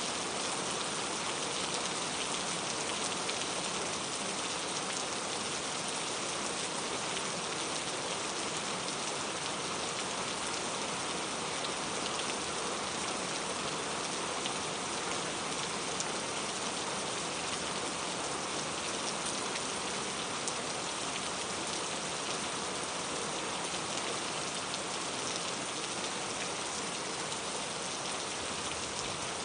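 Steady rain falling, a dense even hiss of drops pattering on a surface with fine scattered individual drop ticks.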